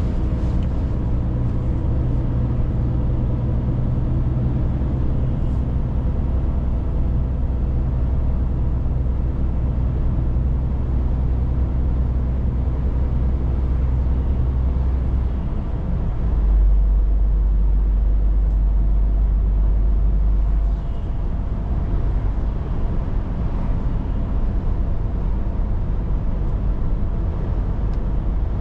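Scania 500S truck engine running steadily under way, a low drone with road noise. About 16 seconds in the engine note drops and grows a little louder for about five seconds, then eases back.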